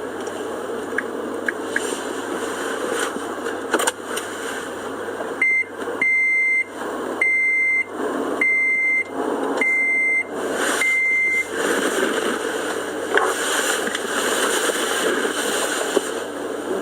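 A car's in-cabin warning chime beeping six times, one steady high tone about every second and a bit, over the steady noise inside the moving car.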